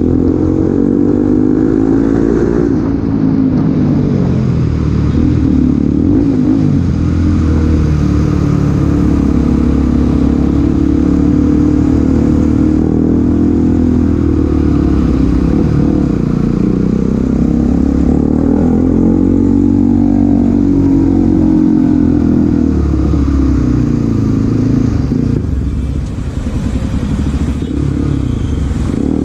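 Bajaj Pulsar NS200's single-cylinder engine under way, its revs rising and falling again and again as the bike accelerates and eases off.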